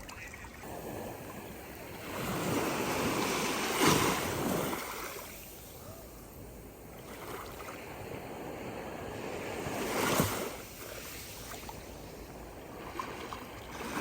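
Sea waves washing onto the shore, swelling and breaking twice, about four seconds in and again near ten seconds.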